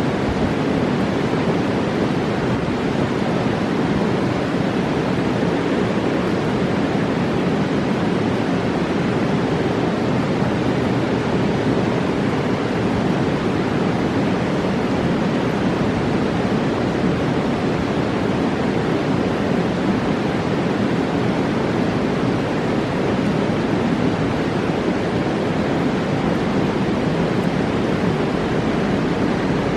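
Roaring mountain river: fast water rushing in a steady, even roar, heaviest in the low range, without a break.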